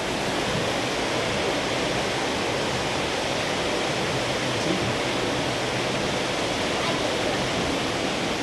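Steady rush of water pouring over a mill dam.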